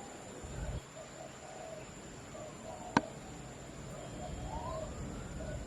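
Heavy rain falling steadily, with faint animal calls and a steady high tone running through it. A single sharp click comes about three seconds in, and near the end a slow glide rises and then falls in pitch.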